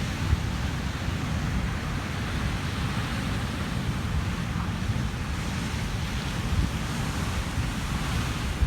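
Atlantic surf breaking and churning on a rocky shore at high tide, a steady rushing wash of water with a deep rumble. Gusty wind buffets the microphone.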